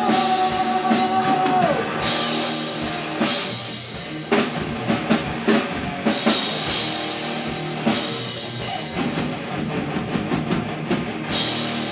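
A rock band playing live: drum kit with cymbals, electric guitars and bass in an instrumental passage between sung lines. A long held note at the start slides down and stops about two seconds in.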